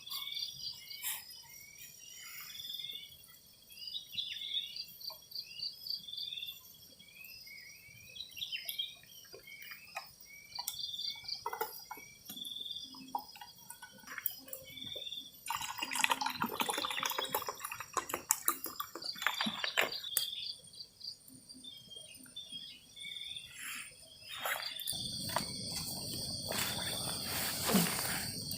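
Insects chirping in a forest, short high calls repeating every second or so. Brief rustling comes a little past halfway, and a louder stretch of noise comes in for the last few seconds.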